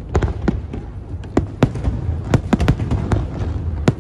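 Aerial fireworks display: shells bursting in an irregular volley of about a dozen sharp bangs and crackles, over a steady low rumble.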